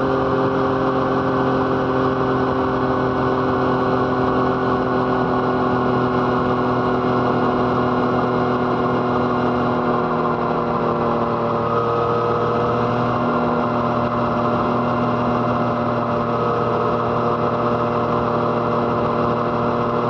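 Yamaha MT-09's three-cylinder engine, through an Arrow Thunder exhaust, running at a steady cruising speed, its pitch sinking slightly over the stretch.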